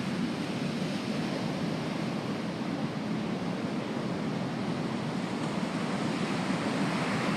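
Ocean surf: a steady wash of breaking waves rushing on the beach.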